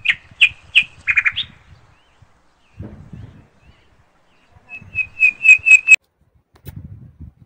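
A bird calling: two quick series of sharp, high repeated notes, the second bout about five seconds in at roughly four notes a second.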